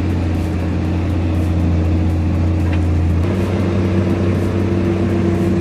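Heavy truck engine running steadily under load, its note stepping up slightly about three seconds in.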